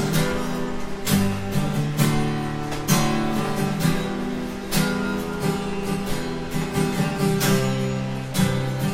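Acoustic guitar strumming held chords, about one stroke a second, as the instrumental lead-in to a slow worship song.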